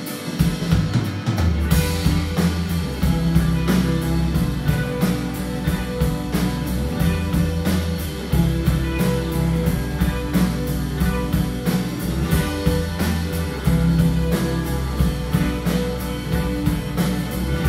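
Rock band playing live: electric guitar, bass and drum kit. A cymbal crash about two seconds in, then an even, steady cymbal rhythm over the bass and guitar.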